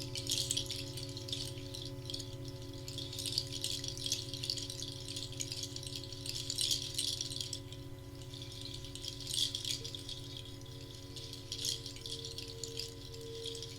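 A hand rattle or shaker shaken in slow swells, over a steady drone of pure sustained tones, some of them gently pulsing. A higher pulsing tone joins about ten seconds in.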